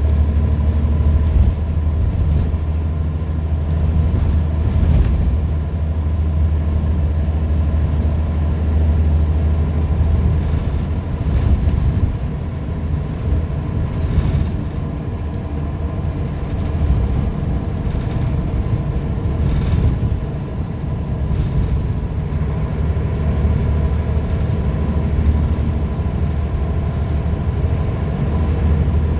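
Scania L94UB bus's five-cylinder diesel engine running with its ZF automatic gearbox, a strong low drone. The drone is steady at first, turns rougher and varies in pitch about eleven seconds in, then settles again near the end. Occasional light knocks and rattles sound over it.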